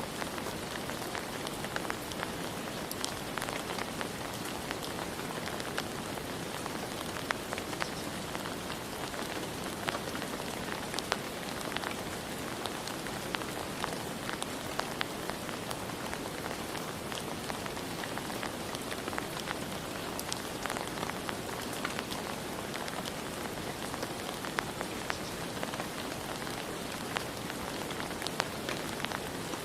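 Steady rain falling, with many individual drops tapping sharply throughout.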